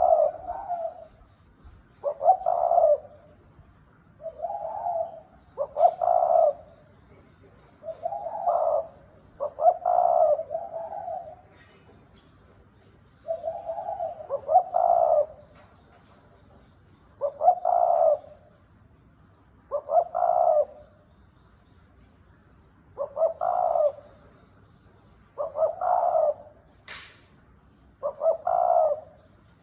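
Spotted dove cooing: a short coo phrase about every two to three seconds. A single sharp click comes near the end.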